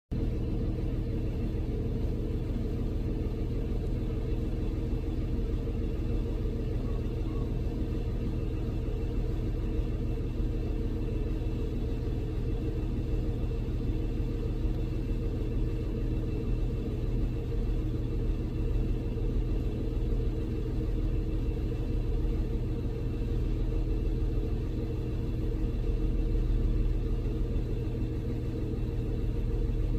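Steady low rumble of a car heard from inside the cabin, with its engine running and a few steady engine tones, swelling slightly near the end.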